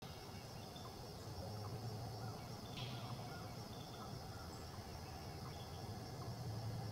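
Faint outdoor ambience: a steady low hum with short faint chirps repeating about once a second, and one brief sharper chirp about three seconds in.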